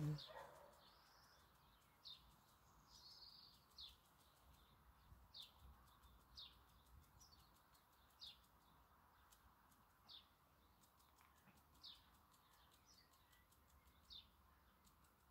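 A small bird chirping faintly, short single high chirps repeated about every one to two seconds over a quiet outdoor background, after a brief low thump at the very start.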